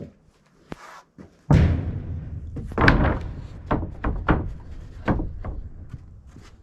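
A rapid series of thuds and knocks, a dozen or so, starting about a second and a half in, the loudest about three seconds in.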